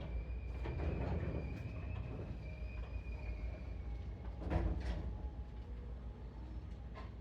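Seibu 4000-series electric train running, heard from inside the carriage: a steady low rumble, with a faint thin high whine for the first few seconds and a sharp knock about four and a half seconds in.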